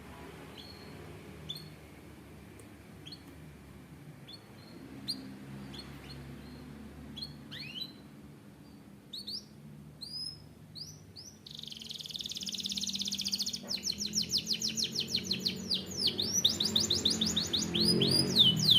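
Canary singing: scattered short chirps and sweeping whistles, then, about eleven seconds in, a fast continuous trill with rising and falling notes that grows louder.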